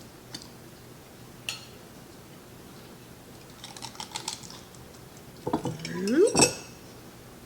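Glass jar and dish clicking and tapping, then a rising squelch about five and a half seconds in as a solid log of homemade jellied cranberry sauce slides out of the glass mold jar, ending in a sharp clack.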